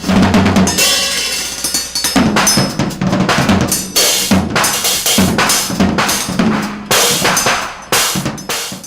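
Drum kit played hard, with loud bass drum and snare hits in an uneven pattern and low drum tones ringing between the strikes.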